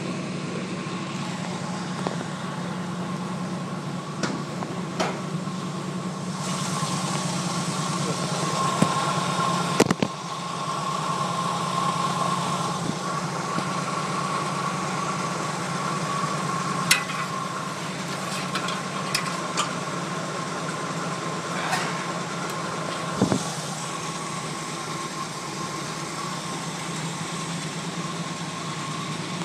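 1980 Jeep CJ5's engine idling steadily, warming up just after a cold start in sub-zero weather. A few sharp clicks sound over it now and then.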